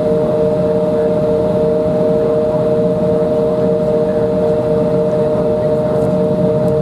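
Steady cabin noise inside an Embraer 175 jet airliner, its twin GE CF34 turbofans running at low power: a constant rush with two steady humming tones that do not rise or fall.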